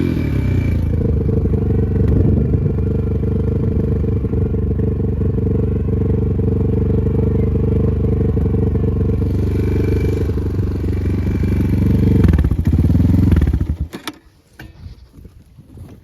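Enduro motorcycle engine running steadily under load, rising briefly a little before it cuts off abruptly near the end, with a few sharp knocks as it stops.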